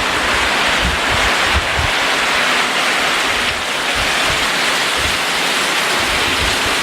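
Heavy rain pouring down, a loud steady hiss, with wind buffeting the microphone in low gusts.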